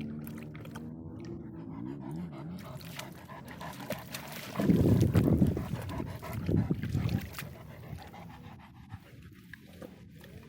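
Dog panting close to the microphone, loudest from about five to seven seconds in.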